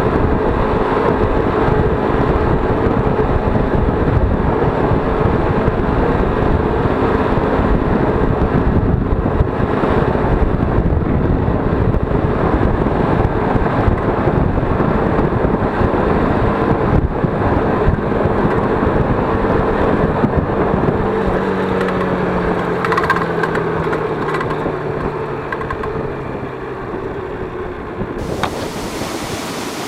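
ZiD 50-01 moped engine running under way, with wind noise on the microphone; near the end its pitch drops as it slows. Just before the end the sound cuts abruptly to steady rushing water.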